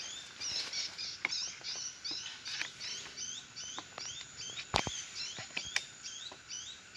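Many small birds chirping rapidly, short high rising chirps overlapping one another without pause. Scattered clicks and one sharp knock about five seconds in.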